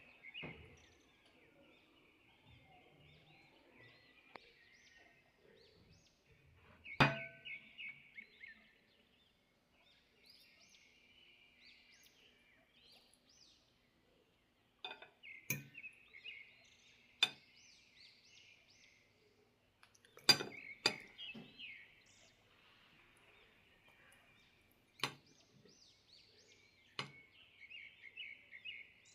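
Dishes and cutlery clinking in sharp strikes, about seven of them, one ringing briefly. Birds chirp and chatter steadily behind them.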